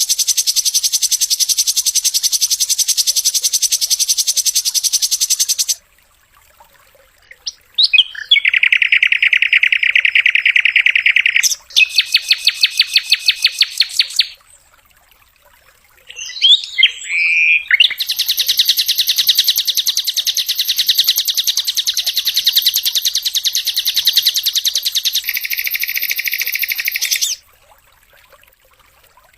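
Sikatan londo flycatcher song: long, very rapid trills of repeated high notes, the rattling 'tembakan' (shot) phrases that bird keepers prize. The trills come in several runs of a few seconds each, separated by short pauses, with a brief broken call phrase between them.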